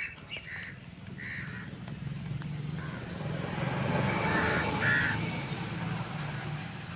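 A motor vehicle passing by, its low engine hum growing louder and then fading, with a few faint short bird calls.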